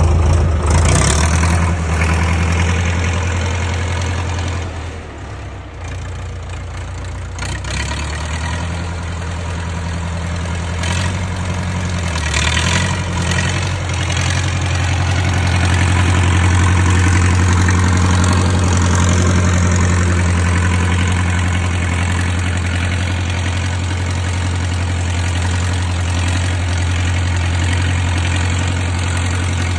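MTZ (Belarus) tractor's diesel engine running steadily, with a dip in level about five seconds in and a brief change in pitch around twelve seconds.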